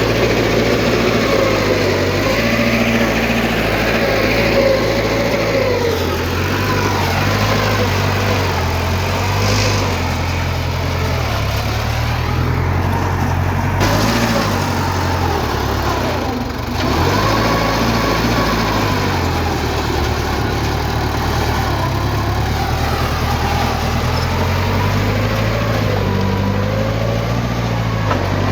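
Heavy diesel engine of earthmoving machinery running steadily under load, its pitch slowly rising and falling as the machine works.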